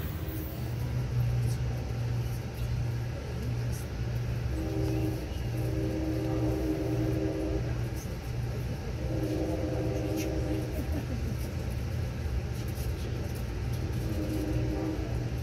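Steady low rumble of a moving Amtrak passenger train heard from inside the car, with the locomotive's multi-tone horn sounding muffled from up ahead in long blasts for road crossings: the first about four and a half seconds in, a second near ten seconds, and a third starting near the end.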